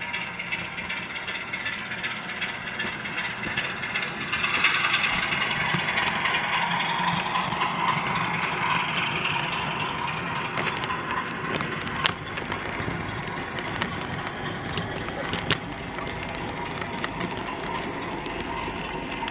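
OO gauge model trains running on the layout: a steady whirr and rattle of the wheels and motors on the track. It gets louder about four seconds in as a train comes nearer, then eases, with two sharp clicks near the end.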